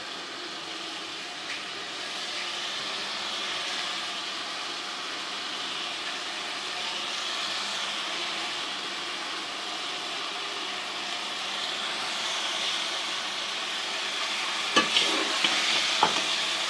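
Cauliflower frying in ghee and spice masala, sizzling steadily as it is stirred to keep the masala from burning on the bottom. In the last two seconds a few sharp knocks of the stirring spoon against the pot.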